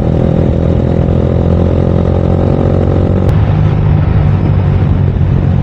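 Yamaha R15 V4's single-cylinder engine running at speed through an aftermarket Akrapovic full-system exhaust. About three seconds in, the higher part of the engine note drops away at once, as when the throttle is closed or a gear changes.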